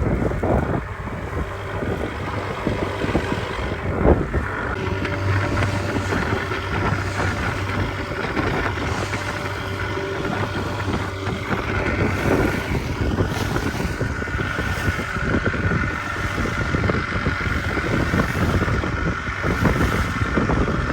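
A small boat under way, its motor running steadily with wind buffeting the microphone, and a few brief knocks or bumps.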